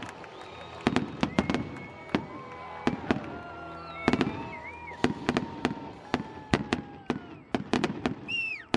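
Fireworks display: many sharp bangs in quick succession, with whistling tones among them, one of them falling sharply near the end.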